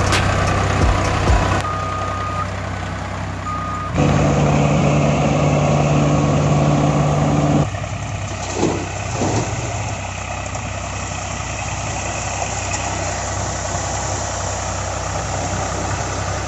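Heavy vehicle engine running steadily, with two short high beeps in the first few seconds. It grows louder, with a strong steady drone, from about 4 s until about 7.5 s, then drops back.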